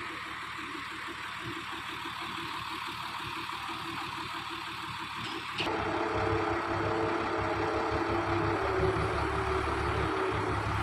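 Steady machinery hiss, then about halfway an abrupt switch to a heavy truck engine running with a low rumble and a steady hum.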